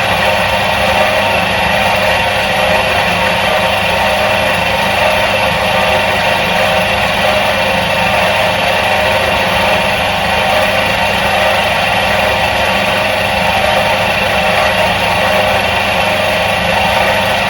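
Electric motor of a 1977 Soviet washing machine running steadily, a constant whirring hum that neither rises nor falls.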